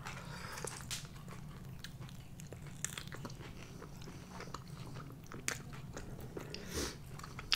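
Close-miked chewing and biting of a sauced, fried chicken wing: soft wet mouth clicks with a few sharper crunches.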